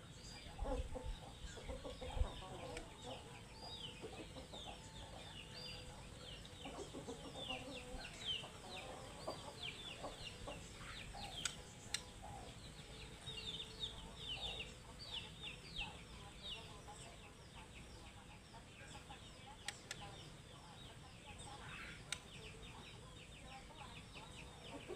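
White-rumped shama chirping: many quick, high, downward-sliding chirps in close succession, with chickens clucking lower down, mostly in the first half.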